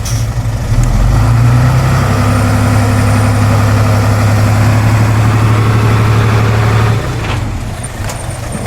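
Heavy diesel engine of earthmoving machinery running. It grows louder about a second in, holds a steady pitch for several seconds as if working under load, then drops back near the end.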